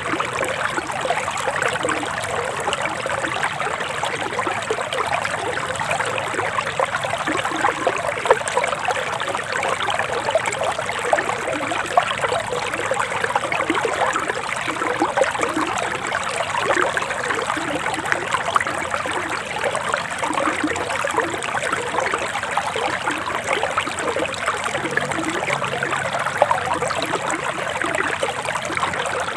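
Forest stream flowing with a steady, continuous babbling trickle.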